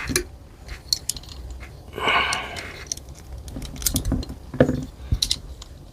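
Scattered light clicks, clinks and a short scrape of small metal screws and a hand tool being handled while an air rifle's top rail screws are put in and snugged up.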